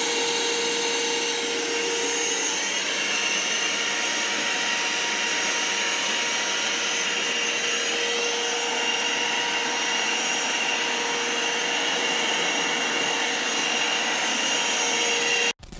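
Vacuum cleaner running steadily, a rushing of air with a whine over it, switched off near the end.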